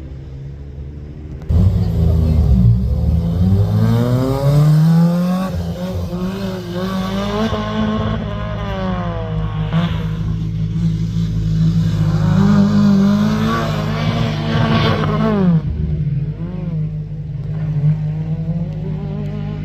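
Rally car engine idling, then accelerating hard from about a second and a half in, its pitch climbing and dropping several times as it goes up through the gears.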